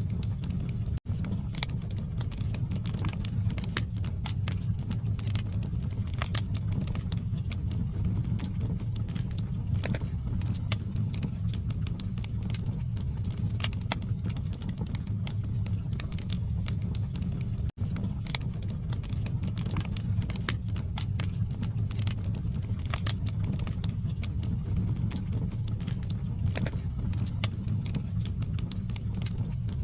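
Log fire in a fireplace crackling, with many irregular sharp pops and snaps over a steady low rumble of burning. The sound cuts out for an instant twice.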